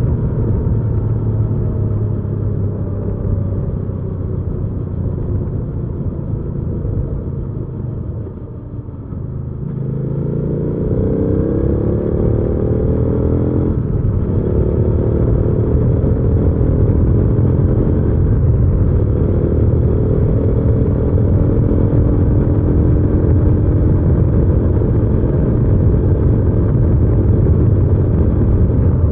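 Hyosung GV300S Aquila 300's V-twin engine on the move: it slows with falling pitch over the first third, then accelerates with rising pitch, breaks briefly for an upshift midway, and pulls on into a steady, louder cruise.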